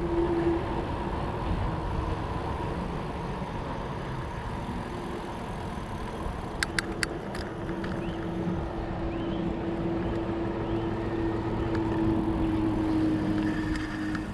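Fat bike riding along on wide 4.4-inch Schwalbe Jumbo Jim tyres: rolling rumble with a steady tyre hum. A few sharp clicks come about halfway through.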